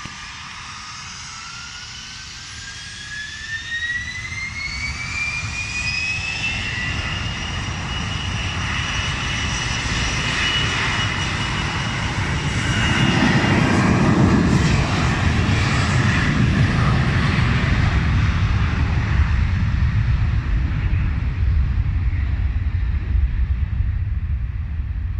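Jet airliner engines: a whine rising in pitch over the first several seconds, then holding steady, while a loud low rumble builds to its peak about halfway through and stays loud.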